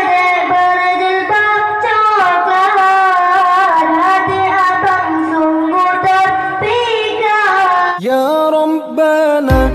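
Boys' voices singing a zikir, an Islamic devotional chant, in a melody of long, bending held notes. About eight seconds in it cuts abruptly to a different song, an intro jingle, with a heavy beat coming in near the end.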